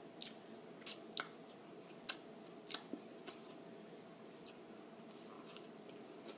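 Close-up mouth sounds of someone chewing food, with a handful of short sharp wet clicks and crunches in the first few seconds, then quieter chewing.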